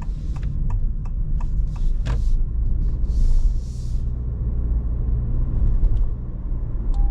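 Honda ZR-V cabin with steady low road rumble while driving. A turn signal ticks at about two and a half clicks a second for the first two seconds, then stops. A brief hiss comes about three seconds in.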